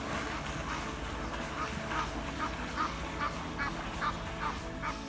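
A duck quacking in a steady run of short calls, about two or three a second.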